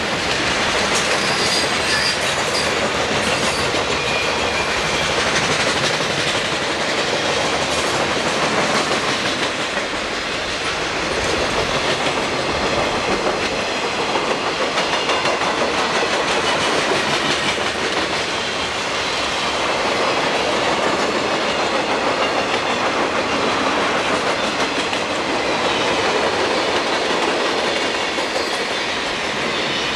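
Freight cars of a long Conrail train rolling steadily past at close range: a continuous, even noise of steel wheels on rail.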